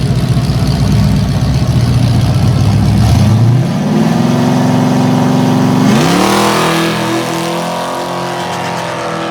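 Drag-racing V8 engines rumbling at the start line, then launching about three and a half seconds in, with the engine pitch climbing, and climbing again through a gear change about six seconds in as the cars pull away down the track.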